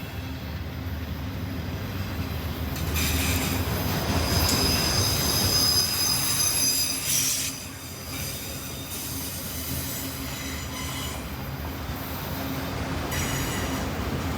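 CSX freight train rolling past with a steady rumble. Its wheels squeal high-pitched from about three seconds in to past the middle, and squeal again briefly near the end.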